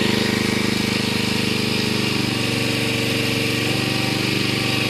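A small engine running steadily at an even speed, with a rapid, regular pulsing beat.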